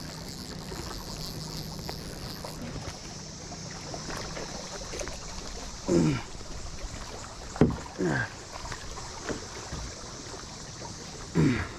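Steady high-pitched drone of a cicada chorus filling the air. A few short sounds falling in pitch, like grunts, break in a few times, and there is one sharp knock about two-thirds of the way through.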